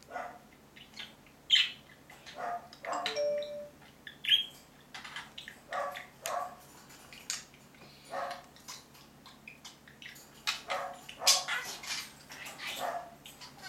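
Budgerigars chattering: a run of short, scratchy calls and chirps with a few brief whistled notes, busiest and loudest near the end.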